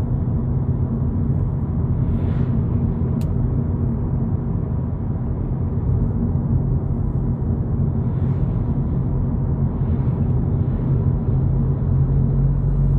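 Steady low rumble of road and engine noise inside the cabin of a 2022 Volkswagen Polo GTI cruising at about 70 km/h on cruise control in sixth gear, with a low engine hum under it.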